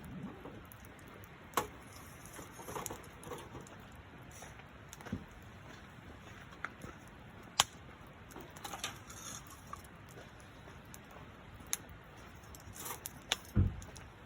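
Campfire crackling: irregular sharp pops and snaps of burning wood a second or more apart over a faint hiss, with a dull thump near the end.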